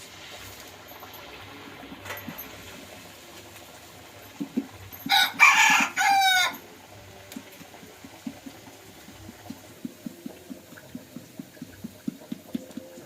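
A rooster crowing once, loud, starting about five seconds in and lasting about a second and a half. A steady run of soft low taps, about three a second, follows through the second half.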